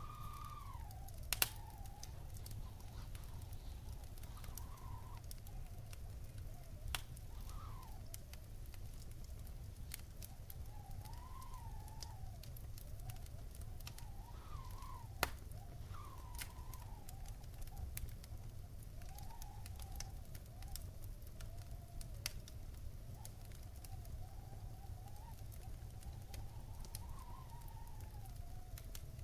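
Wood fire in a stone fireplace crackling over a low rumble, with scattered sharp pops, the loudest about a second in. A thin whistling tone wavers up and down throughout.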